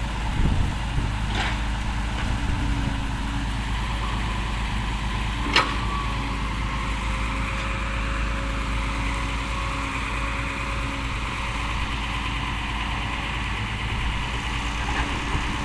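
Diesel engines of dump trucks and an excavator running steadily at idle, with one sharp knock about five and a half seconds in.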